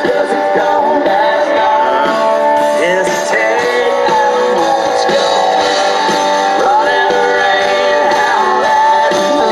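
Live country-rock band playing, with strummed guitars to the fore.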